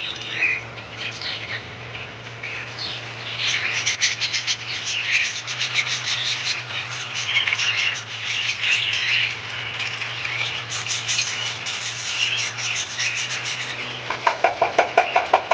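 Budgerigars chattering with a steady stream of warbling chirps and rapid clicky notes. Near the end a louder run of quick, lower-pitched calls comes at about seven a second, over a steady low hum.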